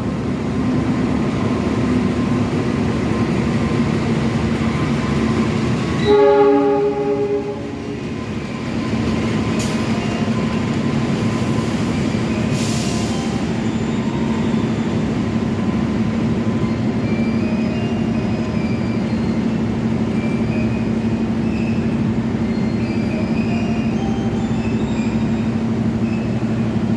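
Lodaya passenger train running with a continuous rumble and steady drone; its horn sounds once, loudly, for about a second and a half, about six seconds in.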